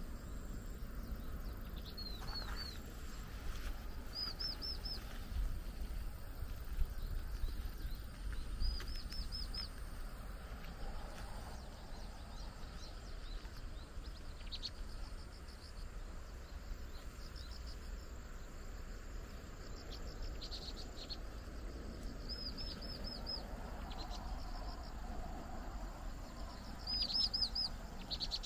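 Small birds chirping: short runs of three or four quick high notes, repeated every few seconds, over a low steady rumble.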